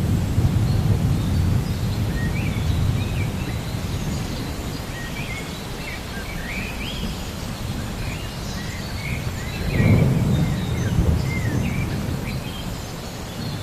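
Low, rolling thunder rumbling over a steady hiss of rain, fading over the first few seconds and swelling again about ten seconds in, while birds chirp on and off.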